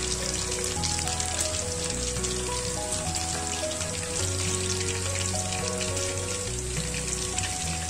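Chicken pieces frying in a pan of hot oil, a steady crackling sizzle, over a background music tune.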